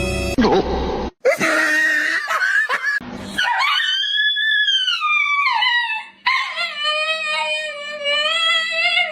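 A dog giving two long, high-pitched howls, the first rising then falling in pitch, the second held more level, after a brief burst of music and some scuffling noise.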